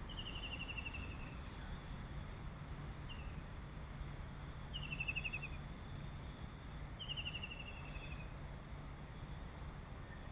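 A songbird singing: a fast trill of rapid repeated notes dropping slightly in pitch, about a second long, three times, with a few short higher calls in between. A steady low hum and rumble runs underneath.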